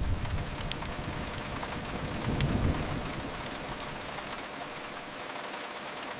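Steady rain hiss mixed with a wood fire crackling, which gives a few scattered sharp pops. A faint low rumble fades out over the second half.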